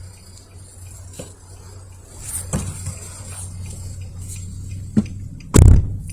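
Low steady rumble of a passing intermodal freight train, with scattered irregular clanks and knocks. A sharp knock about five seconds in is followed by a much louder low thump near the end.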